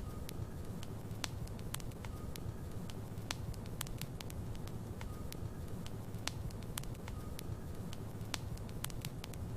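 Logs burning in a fireplace: a steady low rumble of the flames with irregular sharp crackles and pops from the wood.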